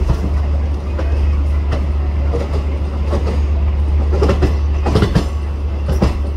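Ride aboard a moving Indian Railways passenger train: a steady, loud low rumble from the coaches running on the track. Sharp clacks of the wheels over rail joints come at uneven intervals, with a cluster about five seconds in.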